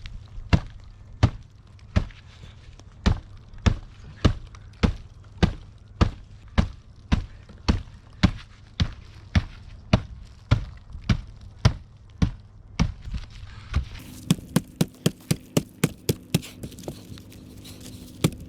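Repeated chopping blows on a large firewood log to split it. The hits come steadily, about one or two a second, then quicken near the end.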